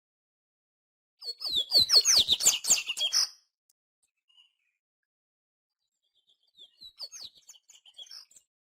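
Papa-capim (yellow-bellied seedeater) singing: a loud burst of rapid, high, down-slurred chirps lasting about two seconds, then a fainter, shorter phrase near the end.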